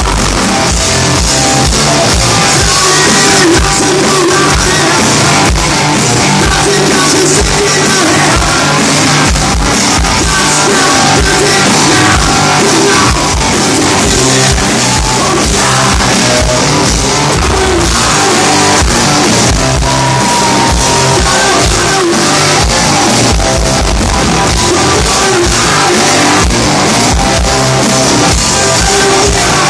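Live rock band playing loud, with vocals over guitars and drums, heard in a large hall.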